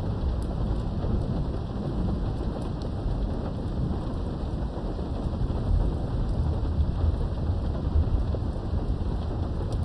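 Steady rain with the low rumble of distant thunder, the rumble growing stronger in the second half.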